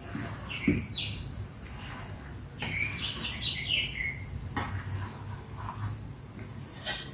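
Birds chirping: a few short chirps about a second in, then a quick run of chirps around the middle. Under them is a steady low hum, with a few sharp clicks.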